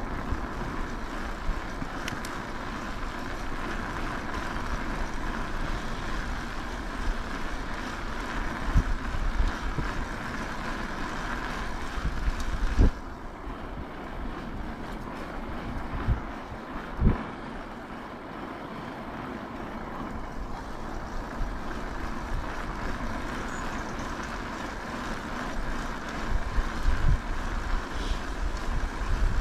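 Wind rushing over a GoPro's microphone while riding an e-bike, a steady rush with a few brief low thumps, more of them near the end.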